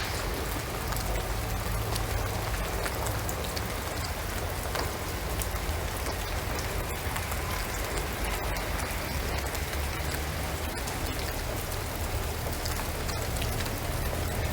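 Steady rain falling on a shingled roof and pine trees: a constant even hiss full of individual drops ticking, with a low rumble underneath.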